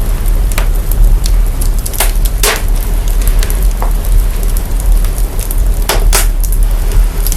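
Fire crackling, with sharp irregular pops (two close together about six seconds in) over a loud, steady deep rumble. The fire recording is processed to boost its sub-bass.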